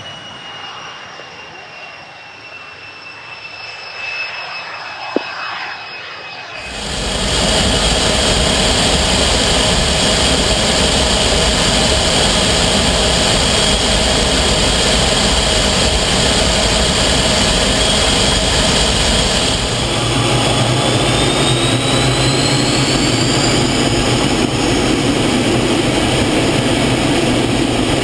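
Canadair T-33 Silver Star jet engine whining, its pitch falling slowly. About six seconds in it cuts abruptly to a much louder, steady jet rush. Later a whine rises in pitch for a few seconds as the engine note changes.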